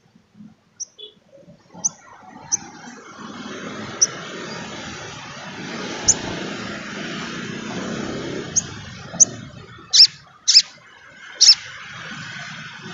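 Sunbird giving short, sharp, high chirps, spaced out at first, then three loud ones in quick succession near the end, over a steady rushing background noise.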